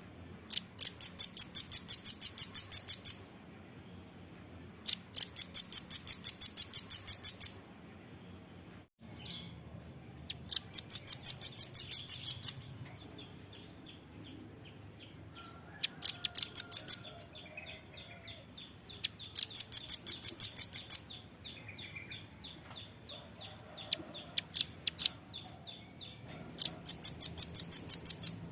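Velvet-fronted nuthatch (red-billed nuthatch) singing: rapid trills of sharp, high notes in bursts of about two seconds, repeated every few seconds, with a few scattered single notes between bursts.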